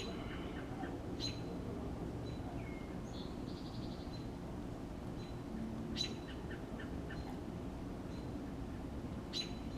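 Birds chirping: four short, sharp chirps a few seconds apart, with a brief rapid trill near the middle, over a steady low hum.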